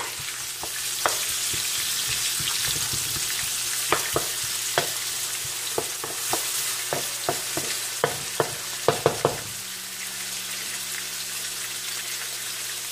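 Chopped onions and garlic sizzling in hot oil in a metal wok, with a wooden spatula scraping and knocking against the pan as they are stirred. The stirring stops about three-quarters of the way through, leaving only the steady sizzle.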